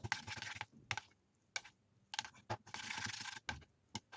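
A utensil clicking and scraping in a bowl of instant noodles as they are stirred with thick, jelly-like sauce: scattered sharp clicks and two short stretches of wet squishing, one at the start and one about three seconds in.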